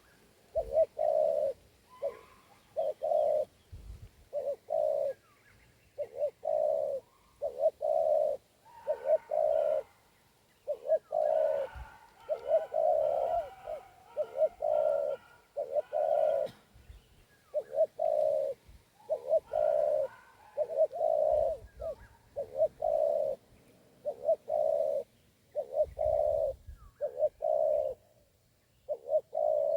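Spotted doves cooing: short low coo phrases repeated one after another, with brief gaps. Fainter, higher chirps from other birds join for several seconds in the middle.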